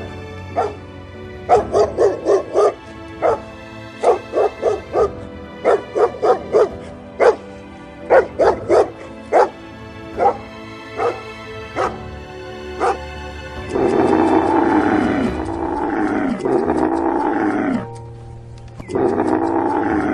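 A dog barking in short, sharp yaps, often several in quick succession, over steady background music. From about two-thirds of the way in, long drawn-out animal calls that fall in pitch take over.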